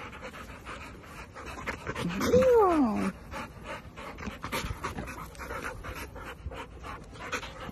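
Two yellow Labrador-type dogs panting rapidly as they jump for a toy held above them, with one short whine falling in pitch about two seconds in.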